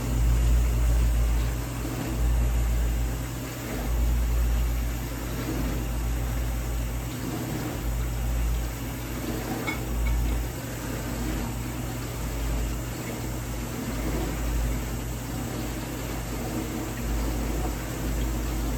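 Vintage dishwasher running a wash cycle: a steady pump-motor hum with water churning in the tub, which the owner suspects comes from a restricted pump because the water no longer hits the tub at full force. A faint click about ten seconds in.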